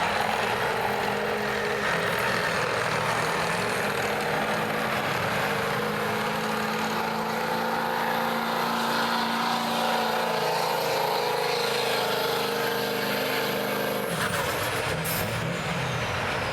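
Diesel pickup truck engine running hard and steady under load while pulling the sled, with a thin high whine above it. The engine note stops abruptly near the end as the truck comes off the throttle.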